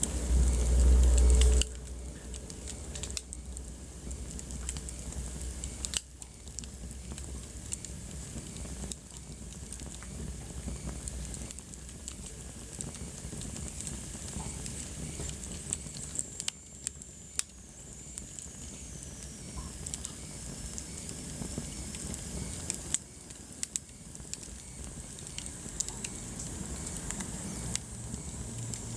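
Wood fire crackling in a fireplace: a steady hiss with scattered sharp pops and snaps. A brief low rumble in the first second and a half is the loudest part.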